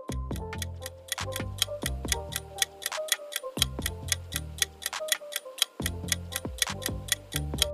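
Clock-tick countdown sound effect ticking evenly at about four ticks a second, over light background music with low bass notes.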